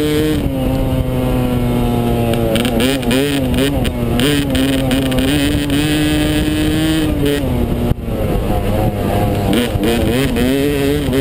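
Yamaha 250 dirt bike engine running while being ridden, its pitch rising and falling repeatedly with the throttle, holding steady for a few seconds midway.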